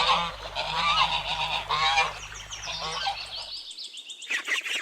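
Geese honking, a run of repeated calls. The sound cuts off after about three and a half seconds, and near the end ducks start quacking.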